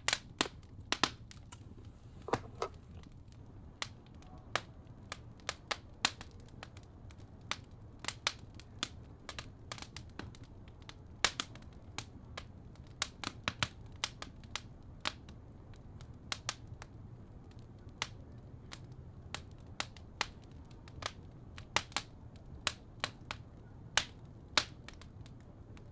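Fireplace crackling: irregular sharp pops and snaps, one to several a second, over a steady low rumble.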